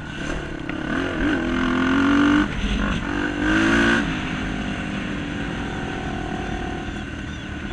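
Honda Tornado dirt bike's single-cylinder engine revving hard twice, its pitch climbing each time, then running at a steadier speed.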